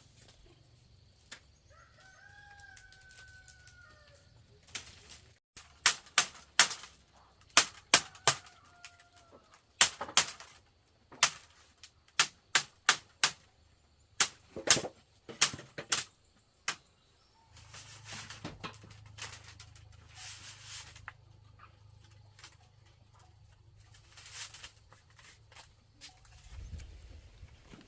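A rooster crows a couple of seconds in, with fainter chicken calls after. Then comes a long run of sharp knocks, a few a second in uneven groups, the loudest sounds here, followed by a few seconds of scraping or rustling noise.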